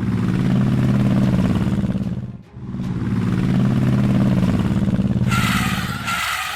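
A vehicle engine running steadily in two stretches, broken by a brief dip about two and a half seconds in, with a hiss over it for about a second near the end.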